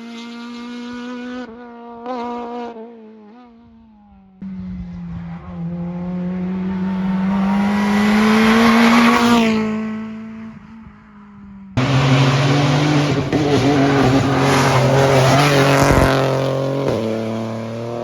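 Rally cars at full throttle on a special stage, engines revving up and down through gear changes, in a run of separate passes. One car fades early on, another approaches and passes loudest at about eight to nine seconds, and a third is heard close and loud from about twelve seconds.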